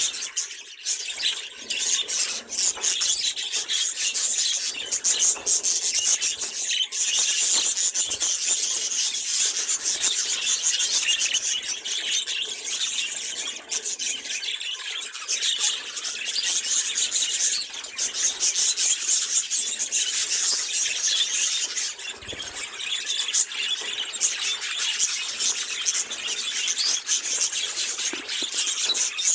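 Budgerigars chattering and warbling without a break: a dense, high-pitched twittering made of many quick clicks and chirps.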